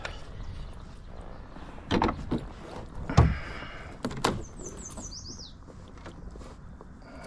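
Three knocks and thumps on a fishing kayak during the fight with a hooked fish, the loudest and deepest about three seconds in, with a short run of high descending chirps just after the third.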